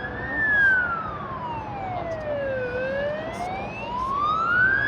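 Emergency vehicle siren on a slow wail: the pitch falls for about two and a half seconds, then rises again over the next two seconds, over a background of traffic noise.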